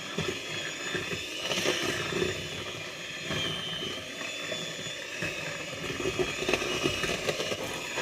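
Electric mixer running steadily, beating brownie batter.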